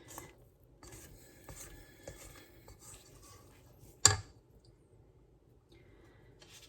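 Spatula scraping and stirring thick brownie batter around a mixing bowl, with one sharp knock about four seconds in.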